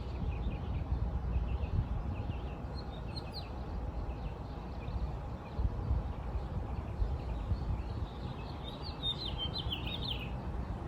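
Small birds chirping on and off over a steady low rumble, with a louder run of quick chirps near the end.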